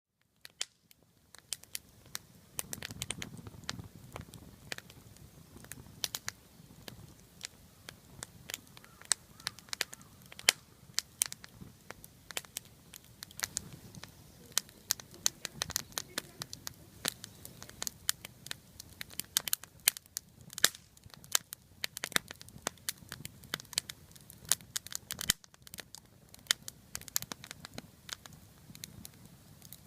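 Small wood fire of slit wood pieces burning, crackling with many irregular sharp pops over a low rush of flame that swells about three seconds in.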